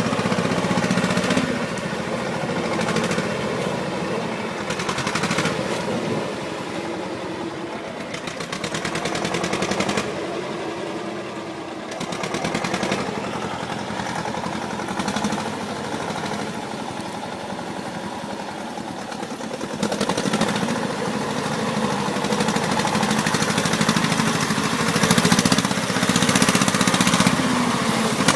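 Vehicle engine running with a fast, rattly pulse, its loudness rising and falling and growing louder toward the end.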